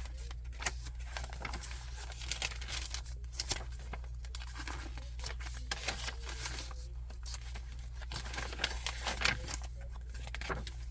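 Paper pages of a handmade junk journal rustling and crinkling as they are handled and turned, in many irregular short rustles, over a steady low hum.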